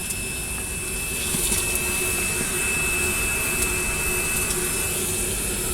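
Car-wash vacuum running steadily, a constant hiss with a high, even motor whine.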